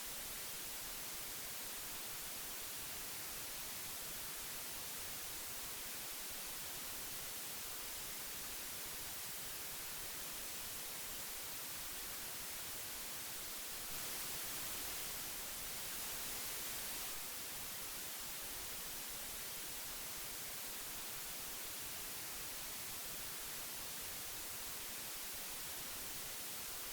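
Old magnetic tape hiss: a steady, even hiss weighted toward the high end, swelling slightly louder for a few seconds about halfway through.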